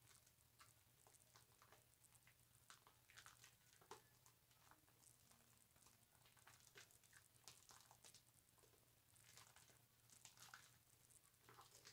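Faint, wet squishing and crackling of soap lather being worked with a loofah: many small, irregular ticks and pops.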